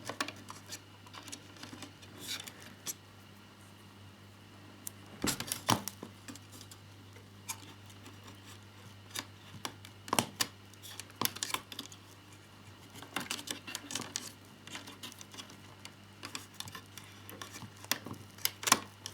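Irregular small clicks and taps of plastic and metal model motorcycle parts being handled and pressed into place, over a faint steady low hum.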